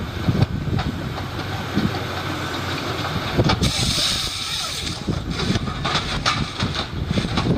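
Heavy machinery running, with repeated knocks and clatter and a hissing rush about three and a half seconds in that lasts over a second.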